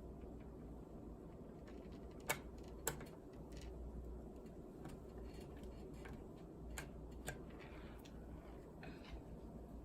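Small screws and a screwdriver clicking and ticking against a laptop's plastic case while the screws are driven back in: scattered light clicks, with two sharper ones about two and three seconds in and two more near seven seconds.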